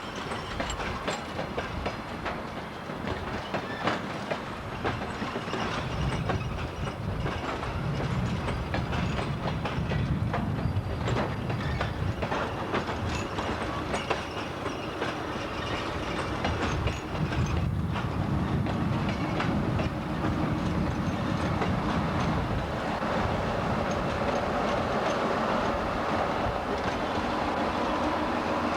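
DR1A diesel multiple unit on the move, its wheels clicking over rail joints above a steady rumble of running gear and diesel engine, with swells of low rumble. It gets a little louder partway through, when a steady engine drone comes in.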